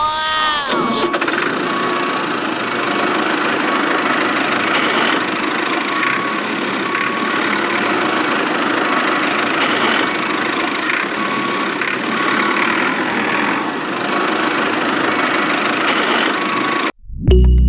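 A motor runs steadily with a dense mechanical whirr and cuts off suddenly near the end.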